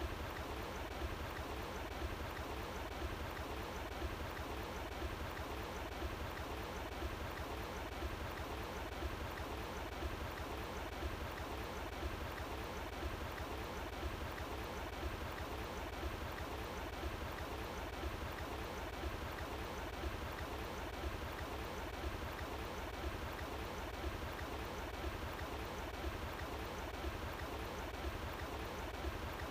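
Running water flowing outdoors: a steady, even rush with no breaks or changes.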